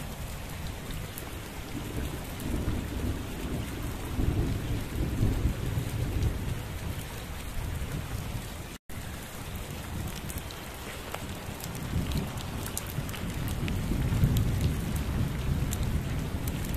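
Heavy monsoon rain pouring steadily, with rolling thunder rumbling low underneath and swelling twice. The sound cuts out completely for a split second about halfway through.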